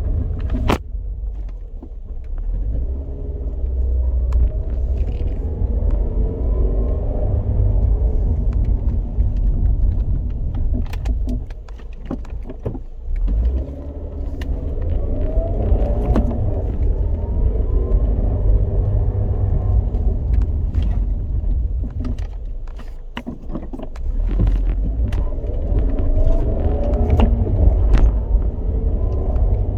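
A 2007 Scion tC makes a grinding noise over a low rumble. The grind is a cluster of tones that rises and falls in pitch three times, about every ten seconds, with scattered clicks.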